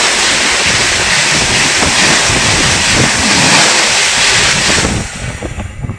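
Express train passing at speed at close range: a loud, steady rush of wheels and air from the coaches, which drops off suddenly about five seconds in as the train clears.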